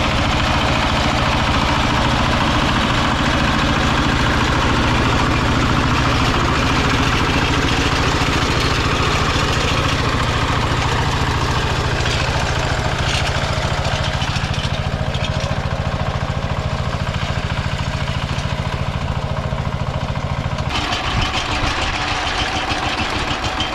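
Kentavr walk-behind tractor's diesel engine running steadily at speed, then dropping to a slower, chugging idle with separate firing pulses about 21 seconds in.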